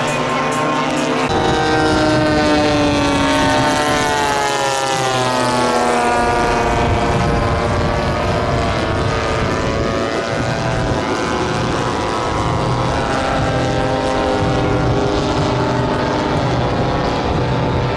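Engines of giant-scale radio-controlled propeller warbird models flying past. Several engine tones overlap, and their pitch falls as a plane goes by a few seconds in.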